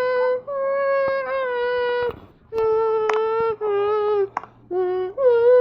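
A child humming a tune without words, in a string of long held notes with short breaks between them, the longest lasting over a second and a half.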